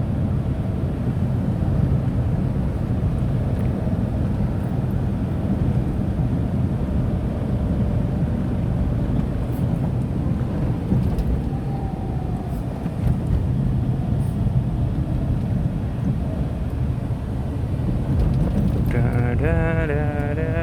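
Steady cabin noise of a Tata Nano driving on a wet road: a low rumble of engine and tyres. Near the end a brief pitched warbling sound comes in over it.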